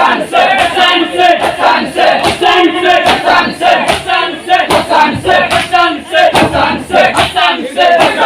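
A crowd of men chanting "Hussain" loudly in unison, in a steady rhythm, as a Muharram mourning chant.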